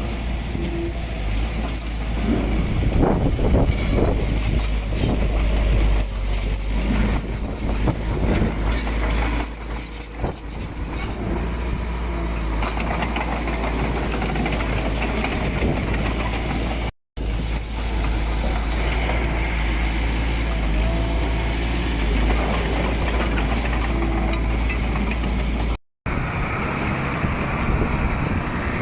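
Diesel engine of heavy earthmoving machinery running steadily under work, with a low rumble, and knocks and rattles between about two and eleven seconds in. The sound cuts out briefly twice.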